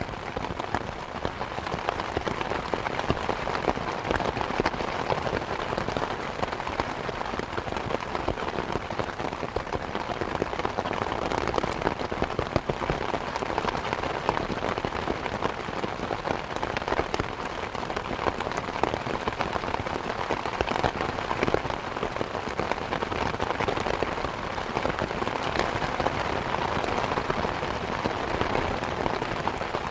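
Steady rain falling, a dense even patter of many small drops hitting surfaces, without a break.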